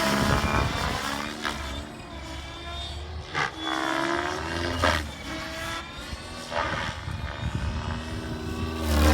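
Gaui X7 radio-controlled helicopter in flight, its rotor and motor whine sliding up and down in pitch as it swoops past and changes speed. Wind rumbles on the microphone underneath.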